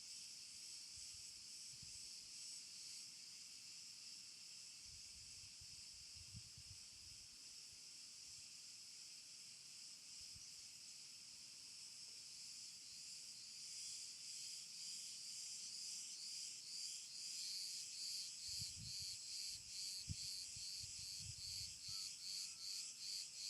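Insects singing in a steady high-pitched chorus that grows louder and takes on a pulsing beat, about twice a second, in the second half.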